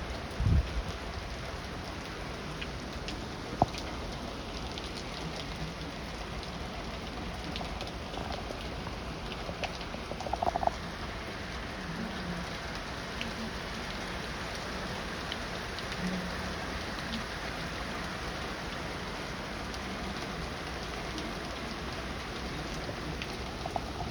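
Heavy rain falling steadily. There is a short low thump about half a second in and a sharp tick a few seconds later.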